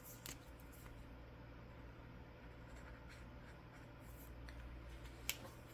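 Faint scratching of a marker or pen on paper as a small box on a printed sheet is coloured in, with a light click near the end.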